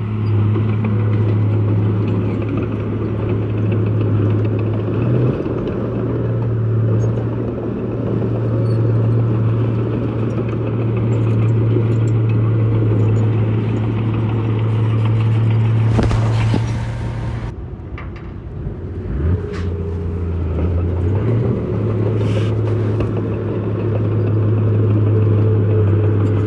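Heavy diesel engine of earthmoving machinery running steadily under load. About two-thirds of the way through there is a short burst of noise, then the engine speed drops for a few seconds before picking back up.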